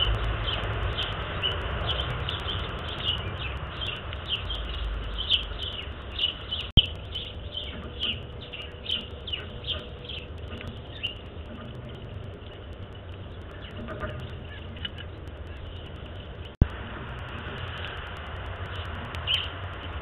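Birds chirping: a quick run of short, high chirps, several a second, thinning out after about ten seconds, over a low rumble in the first few seconds. Two sharp clicks, about seven and seventeen seconds in.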